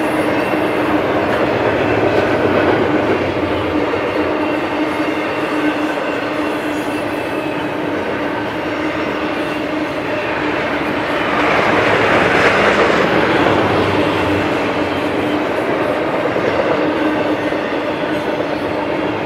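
Double-stack intermodal freight train's well cars rolling past: steel wheels running on the rail with a steady hum underneath, getting louder and brighter for a few seconds around the middle.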